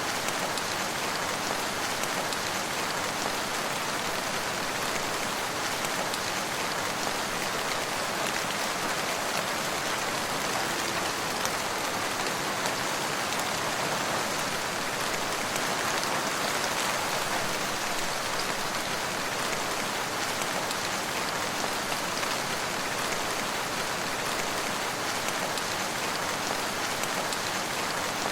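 Steady rain falling, an even hiss of many drops landing on surfaces with no pauses, thunder or changes.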